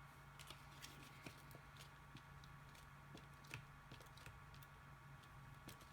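Near silence: faint scattered clicks and soft taps of paper pieces being handled and glued down, over a low steady hum.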